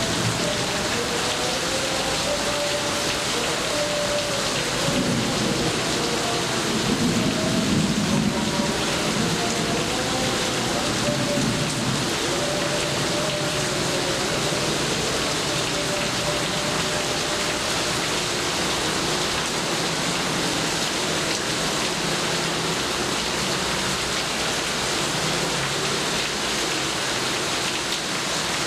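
Steady heavy rain falling, with a low rumble of thunder rolling in about five seconds in, loudest around eight seconds and fading by twelve.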